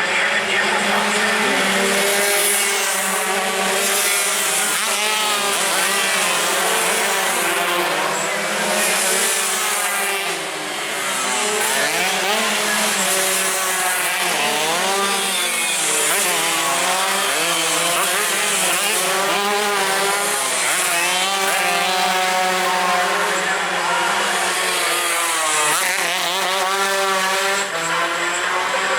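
Several tuned two-stroke sport motorcycles racing, their engines revving up and down through the gears in overlapping, rising and falling pitches.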